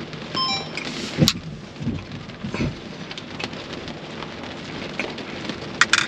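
Rain pattering on the roof and windshield of a Tesla Model X, heard from inside the cabin, with a few sharper taps of heavier drops.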